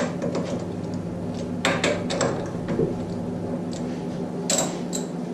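Metal workpiece and tools being handled: a few sharp metallic clinks in two clusters, near the middle and near the end, over a steady low machine hum.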